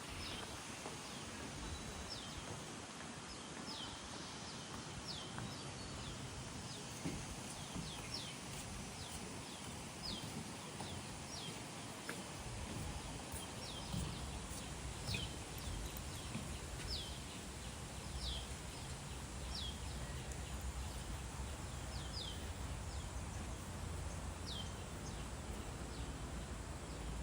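Outdoor ambience with a bird giving short, high, downward-sweeping calls again and again, one every second or two, over a steady hiss. A low rumble comes in about halfway through.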